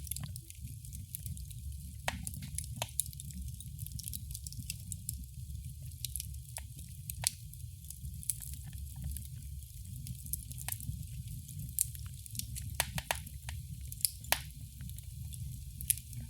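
Wood fire crackling in a fireplace: irregular sharp pops and snaps over a steady low rumble and hiss.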